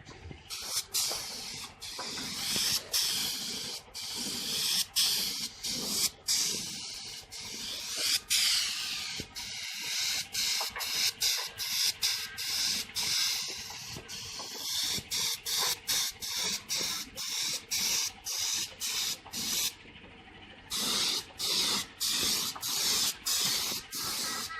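Compressed-air paint spray gun laying a thin coat of clear coat mixed with hardener. It hisses in short on-off bursts as the trigger is pulled and released, with a brief lull about twenty seconds in.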